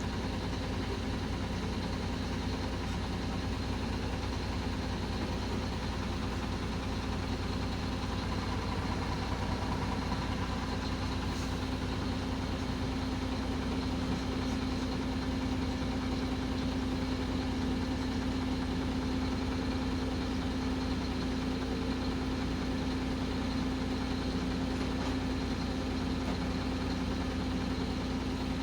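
Heavy work vehicle's engine idling steadily: an even, unchanging drone with one strong low hum.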